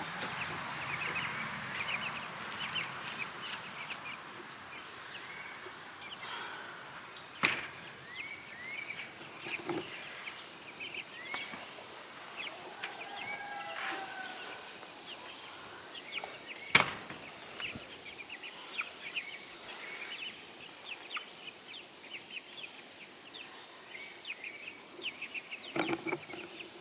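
Young meat chickens peeping and wild birds calling over a steady outdoor hiss, many short rising chirps throughout. Two sharp clicks, about seven and seventeen seconds in, are the loudest sounds.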